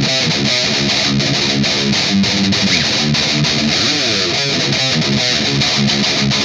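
Electric guitar played through overdrive, riffing with repeated strummed chords, with a sliding run about four seconds in.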